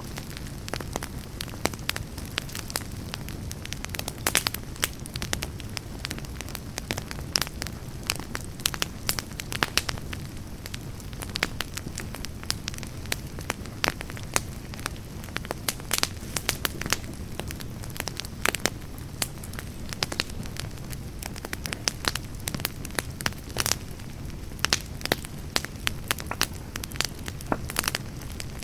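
Wood campfire burning, its logs crackling and popping irregularly over a steady low rush of flame.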